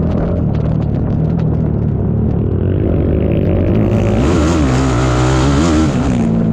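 Racing ATV engine running under changing throttle, its pitch wavering up and down. About four seconds in the sound turns harsher and hissier for a couple of seconds, then settles.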